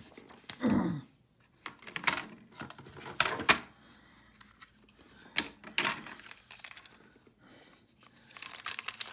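Hard plastic toy track parts being handled and fitted together: a handful of sharp clicks and knocks, with a soft rustle near the end.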